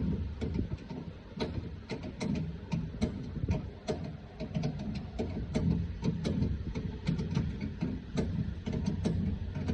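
Irregular light metal clicks and clanks of hand-tool work on the truck's rear brake and differential, a few a second, over a steady low hum.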